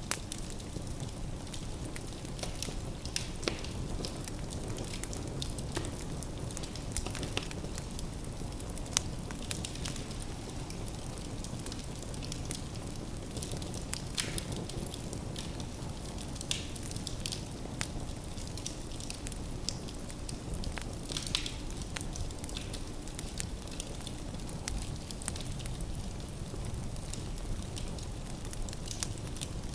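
Firewood burning in a fireplace: a steady low rumble of flames with frequent scattered crackles and pops from the logs.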